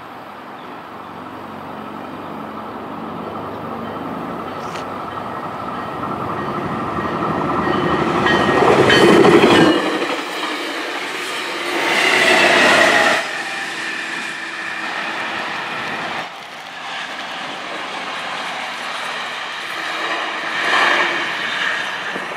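Tri-Rail commuter train passing close by: the rumble of its wheels on the rails builds to a peak about nine seconds in. Its diesel locomotive goes past about twelve seconds in, and the train's noise carries on more faintly as it moves away.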